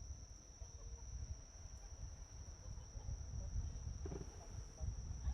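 Crickets singing a steady, unbroken high-pitched chorus over a low, uneven rumble.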